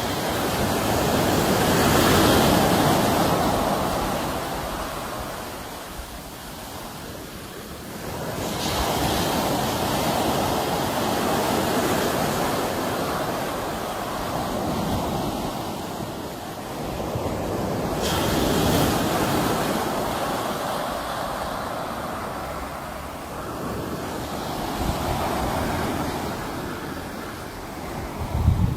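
Sea waves breaking and washing on the shore, a rushing sound that swells and fades every six to ten seconds. A brief low thump comes near the end.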